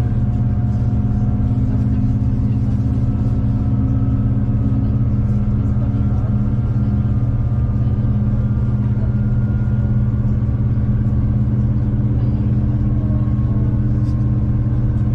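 V/Line passenger train running at a steady pace, a loud, even low drone with faint higher hum tones that drift slightly in pitch.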